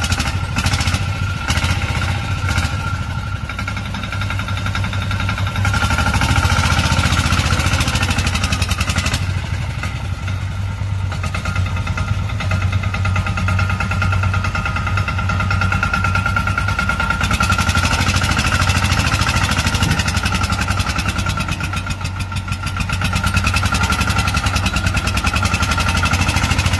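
Tractor engine running continuously with a low, even beat, swelling louder and easing off a few times.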